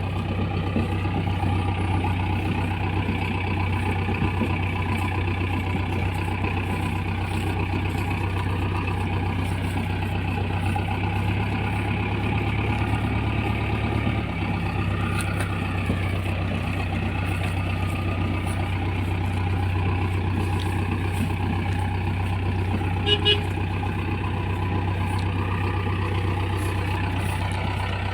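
JCB 3DX backhoe loader's diesel engine running steadily. Late on there is one short beep.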